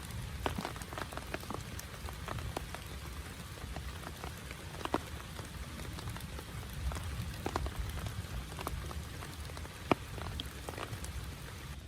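Rain falling on a small tent, with many separate drops striking sharply at irregular intervals over a steady background of rain.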